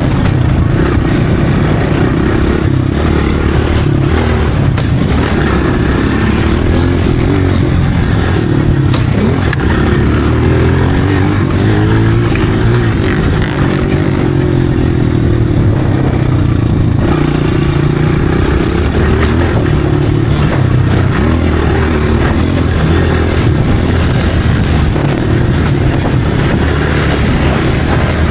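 Dirt bike engine running under riding, its pitch rising and falling as the throttle opens and closes, with a few brief clicks and rattles.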